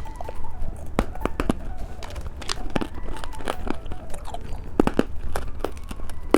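Close-miked candy eating: irregular crisp crunches and clicks, a few sharper ones standing out.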